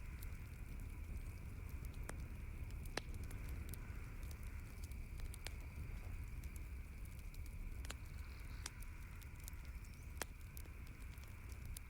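Campfire crackling: scattered sharp pops and ticks, a few louder snaps among them, over a steady low rumble.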